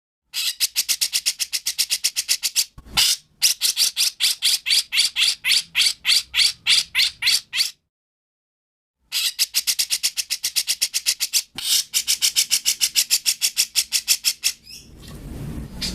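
Recorded songbird song used as masteran: a fast run of sharp, repeated chattering notes, about nine a second. It breaks off into dead silence for over a second midway, then resumes. A low noise rises underneath near the end.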